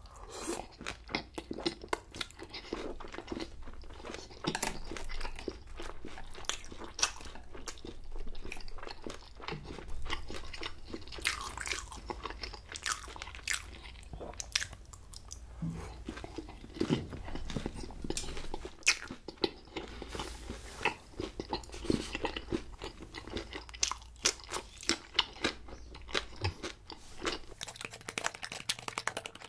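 Close-miked chewing of battered, deep-fried sweet-and-sour pork (tangsuyuk), with many crisp crunches as the coating is bitten and chewed.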